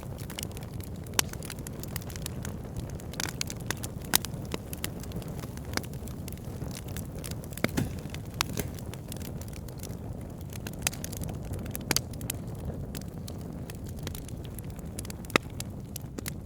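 Wood fire burning: a steady low rush of flames with frequent sharp crackles and pops from the burning logs, a few of them louder snaps.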